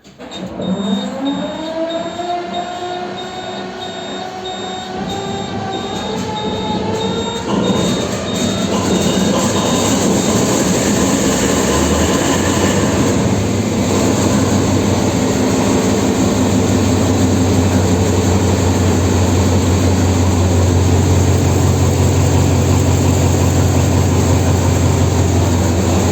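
DE24000 diesel-electric locomotive engine cold-starting: a whine that rises in pitch for about seven seconds as it turns over, then a change as the engine catches and builds to a steady, loud, low running sound.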